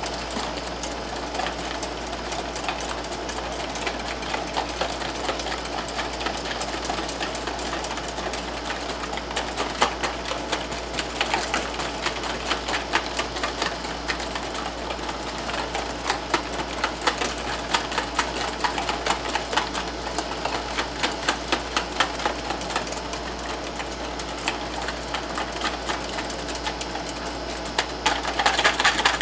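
Wire whisk beating a thick glaze in a bowl: a rapid, steady clatter of the whisk against the bowl, getting louder near the end.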